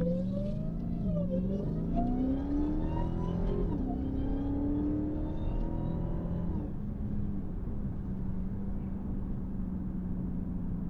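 Supercharged 6.2-litre Hemi V8 of a Dodge Charger Hellcat accelerating hard with supercharger whine. Its pitch climbs, drops back at two quick upshifts in the first four seconds and climbs again. About seven seconds in the pull ends and the engine settles to a steady lower drone.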